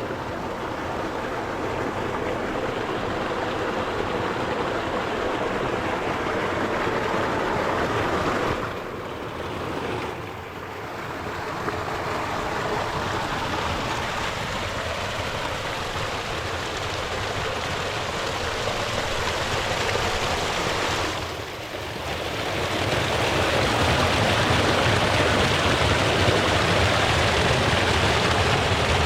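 Mountain stream rushing over rocks, a steady flow of water. It drops away briefly twice, about nine and twenty-one seconds in, and is louder for the last few seconds.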